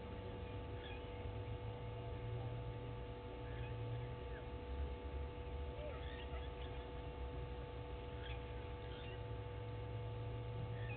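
Faint, scattered bird chirps at irregular moments over a steady low electrical hum.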